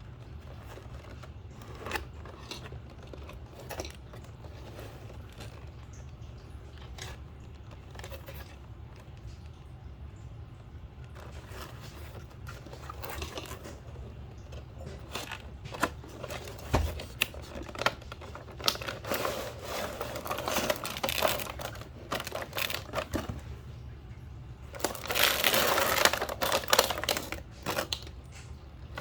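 Toy packaging being handled and opened: scattered clicks and crinkling and tearing of cardboard and plastic over a steady low hum. The handling gets busier past the middle, with a dense burst of rustling near the end.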